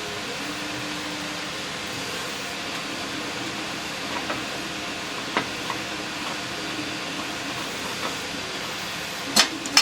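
Steady background hiss with a faint low hum, a few light clicks, then two sharp clicks near the end as the antique cash register's parts are handled during disassembly.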